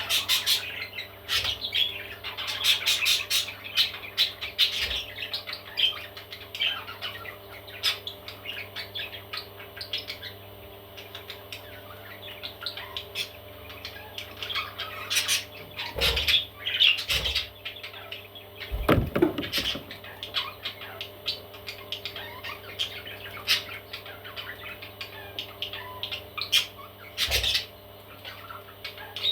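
Baby parrots chirping and squawking over and over, many short calls in quick runs with clicks among them.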